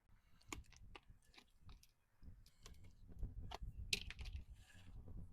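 Scattered light clicks and knocks from handling wood and tools, irregular and faint, with a short scrape near the end.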